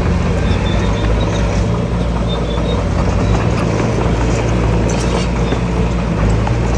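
Diesel engine of heavy earthmoving machinery running steadily under load, with occasional sharp knocks and rattles.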